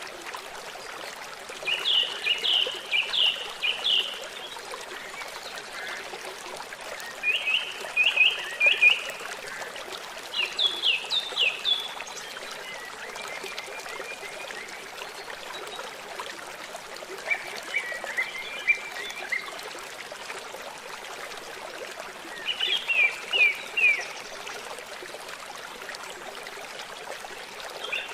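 A songbird singing short phrases of quick, downward-slurred notes, about six phrases a few seconds apart, over a steady rush of flowing water.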